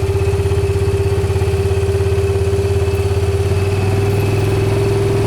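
A vehicle engine idling steadily close by, with a rapid, even pulsing beat that does not change.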